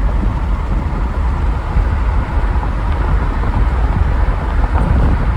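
Steady low rumble of a moving vehicle, with road and wind noise buffeting the microphone.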